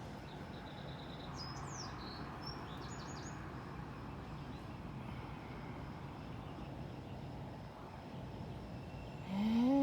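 A few faint, short, high bird chirps over a steady outdoor background hum, then near the end a loud drawn-out call that rises and then falls in pitch.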